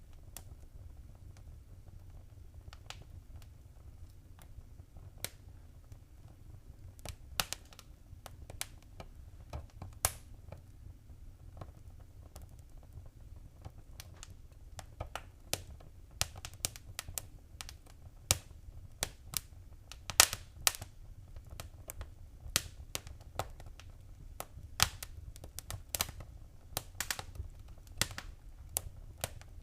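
Wood fire crackling in a fireplace: irregular sharp pops and snaps over a low, steady rumble of the flames, the pops coming more often in the second half.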